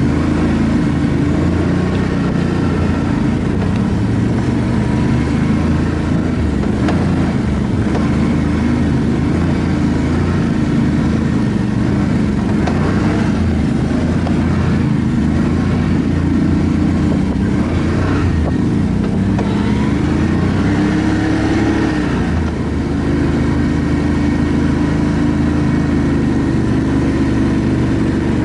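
ATV engine running steadily while riding a dirt trail, its pitch rising and falling with the throttle, with a few knocks along the way.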